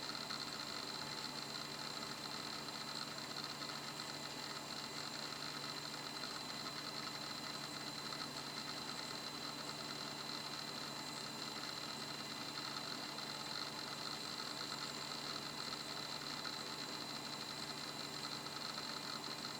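Toshiba 2 GB laptop hard disk drive spinning steadily: a constant high whine with a low hum underneath, and no seek clicks.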